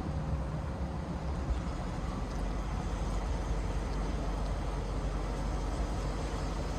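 2022 Peterbilt 389 semi truck's diesel engine running, a steady low rumble with road and wind noise.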